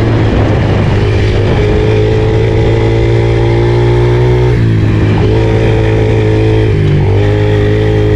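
Pit bike engine running hard under throttle on a dirt track. Its note holds steady, dips about four and a half seconds in and again around seven seconds, and picks back up each time.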